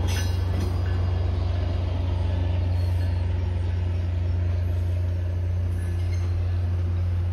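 Diesel-hauled MBTA commuter train rolling past: a steady low locomotive engine drone over the rumble of coaches on the rails, with a few clicks near the start.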